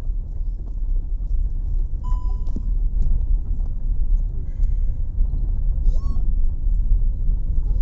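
A loud low rumble that fluctuates throughout, with a few short, high bird chirps over it, about two seconds in, near the middle and about six seconds in.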